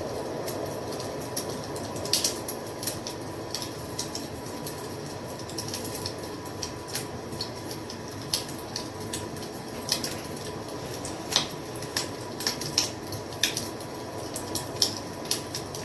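Wood fire crackling: irregular sharp pops and snaps, a few louder ones every second or two, over a steady low rush of burning flames.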